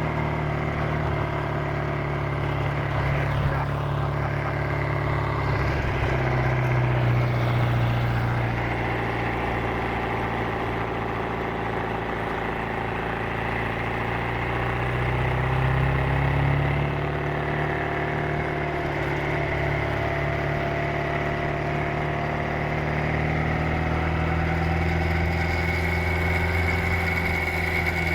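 Supercharged 1328 cc MG XPAG four-cylinder engine of a pre-war MG TA Special race car running on the road. Its pitch eases down about a third of the way in and picks up again about halfway through.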